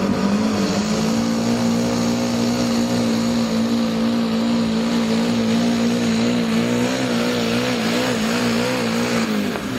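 Diesel engine of a compact-diesel pulling machine running flat out under load during a pull. It holds one steady high note for about nine seconds, wavers in pitch near the end, then drops away suddenly.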